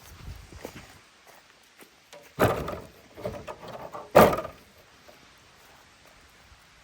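Two dull thumps about two seconds apart, the second one louder, with a few lighter knocks and rustling between them.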